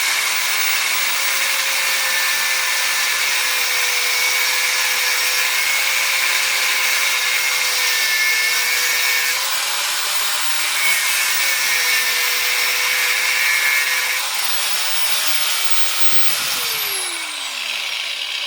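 Angle grinder cutting into a scrap electric motor to get at its copper: a steady high whine over harsh grinding noise. Near the end the grinder is switched off and its whine falls as the disc spins down.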